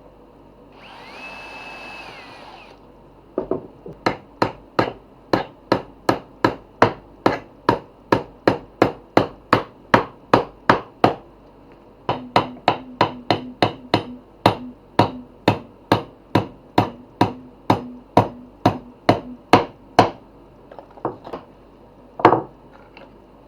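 Hammer striking wood in a long steady series of blows, about two a second, with a short pause partway through and a few last, spaced-out blows near the end. A brief whir comes just before the hammering starts.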